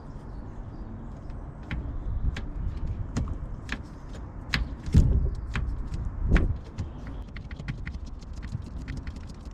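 Sharp clicks and knocks, about one every two-thirds of a second and quicker near the end, with two louder thuds in the middle, over a low steady rumble.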